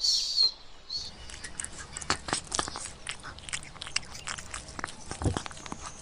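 An animal chewing and crunching food, a run of irregular sharp crunchy clicks, after a brief high-pitched squeak right at the start.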